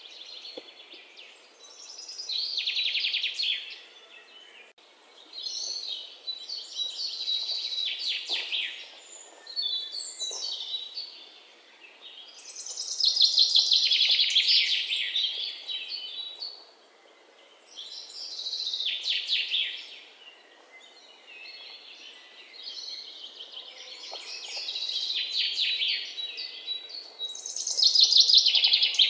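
Songbirds singing: repeated high, rapidly trilled song phrases, each about two seconds long, coming every few seconds over a faint outdoor background hiss.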